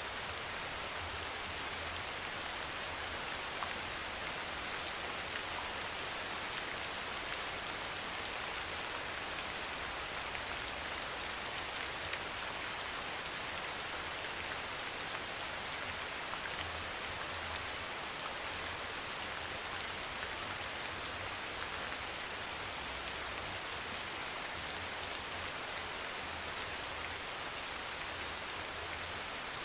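Steady soft rain falling on a surface: an even, unchanging hiss with faint scattered ticks of single drops.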